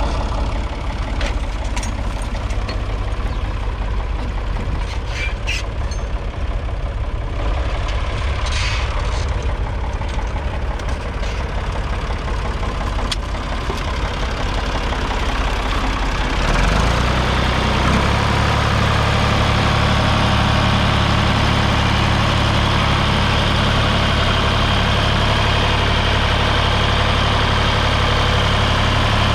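Ford 3000's 2.9-litre three-cylinder diesel engine running steadily. About two-thirds of the way through, the engine speed rises and it then holds the higher, slightly louder note.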